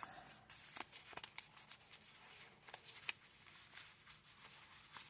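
Faint rustling of paper and cardstock with scattered light clicks and taps as the journal's pages and tags are handled.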